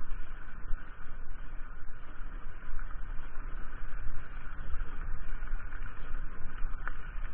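Mountain bike being ridden along a trail: steady rumble and rattle from the bike, with a heavy, gusting low roar over the microphone and a single sharp tick near the end.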